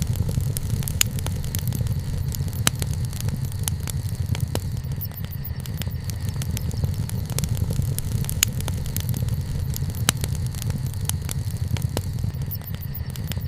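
Wood bonfire burning, with sharp irregular crackles and pops over a steady low rumble.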